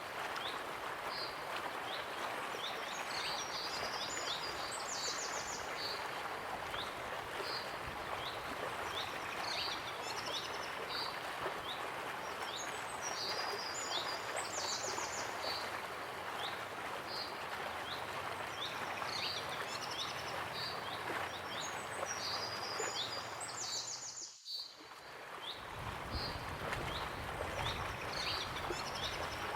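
Waterfall rushing steadily, with small birds chirping repeatedly over the water. Late on, the sound cuts out for a moment and fades back in.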